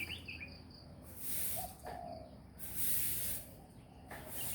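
Outdoor ambience: high-pitched insect hiss that rises and falls in waves about a second long, with a few short bird chirps.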